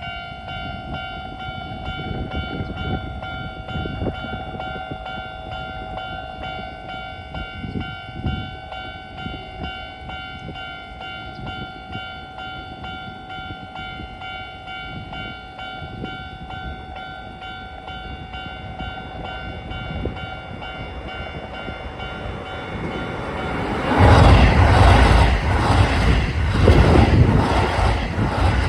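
Japanese level-crossing warning bell ringing steadily over a low rumble. About 24 seconds in, a Keisei 3000-series train passes at speed, and its loud roar and the rhythmic clatter of its wheels over the rail joints drown out the bell.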